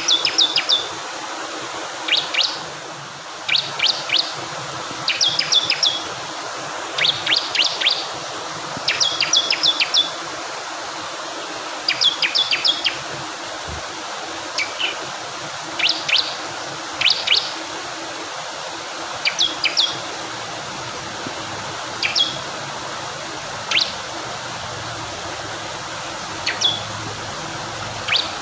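Bar-winged prinia (ciblek kristal) singing: short clusters of rapid, sharp high notes, repeated every second or two, over a steady rush of flowing water.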